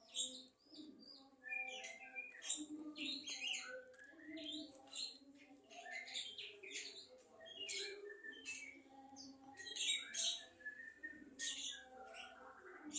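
A songbird singing a rapid, varied run of short, sharp chirps and quick up-and-down whistled notes, with no break.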